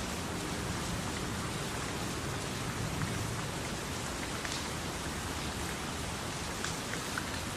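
Steady tropical rain falling, an even hiss with scattered sharper drip ticks of single drops.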